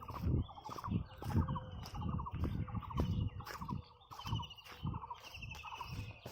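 Footsteps of someone walking, about two steps a second, with birds calling over them in rapid pulsed trills, one lower-pitched and one higher, repeating throughout.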